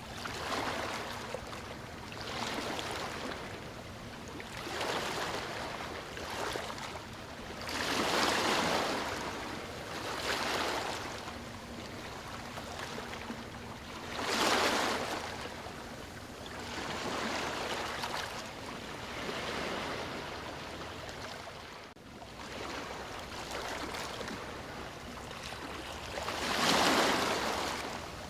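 Sea waves washing onto a shore, a steady rush that swells and falls back every few seconds, with three larger breakers standing out.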